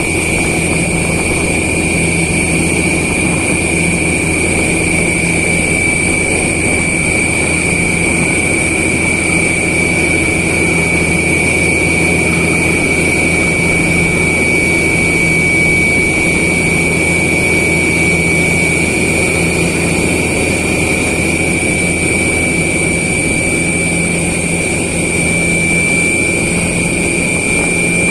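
Borewell drilling rig running steadily under load, a loud even machine noise with a constant high-pitched whine over a low hum.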